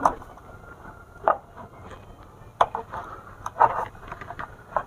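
About five sharp clicks and knocks, spaced roughly a second or more apart, from hands handling and working the switch in a submersible pump's starter control box.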